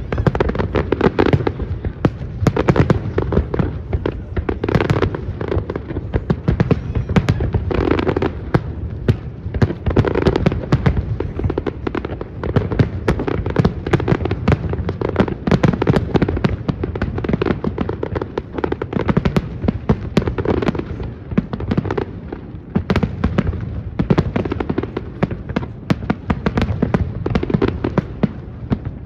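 Fireworks going off without a break: a dense run of bangs and crackles, many overlapping each second.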